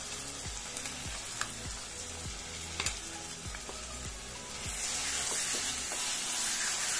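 Garlic and dried red chilli chutney paste sizzling in hot ghee in a kadai, with a spoon clicking and scraping against the pan as it is stirred. About two-thirds of the way in, the sizzle turns louder and more hissing.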